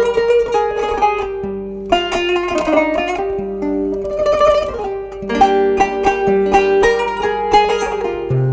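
Kanun, the Turkish plucked zither, playing a melody in quick plucked notes that ring and overlap, with a few held notes left to decay.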